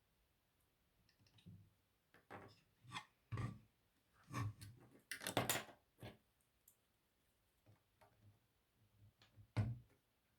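Plastic LEGO pieces being handled and pressed together: an irregular run of small clicks and knocks, loudest about halfway through and once more near the end.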